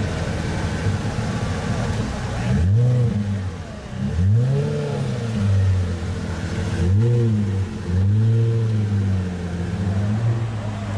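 Pagani Zonda's Mercedes-AMG V12 idling, then revved four times from about three seconds in. Each rev rises and falls in pitch, and the engine drops back to idle near the end.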